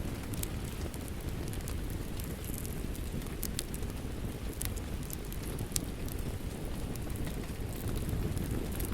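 Wood fire crackling, with a few sharp pops spread through, over a steady low rush of rain.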